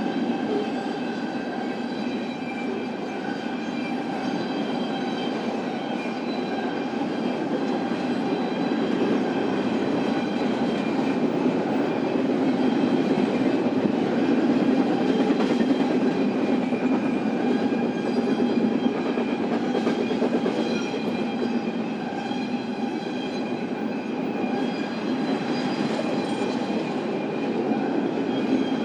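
BNSF intermodal freight train's cars rolling steadily past, a continuous rumble and clatter of wheels on rail with a faint steady high ringing over it.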